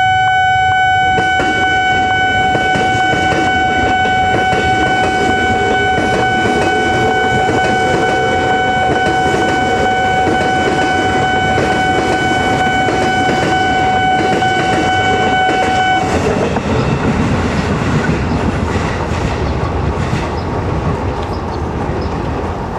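KRL electric commuter train running through a level crossing with a steady rumble of wheels on rails. Over the rumble, a long steady warning tone holds and cuts off suddenly about two-thirds of the way through, after which the train noise slowly fades.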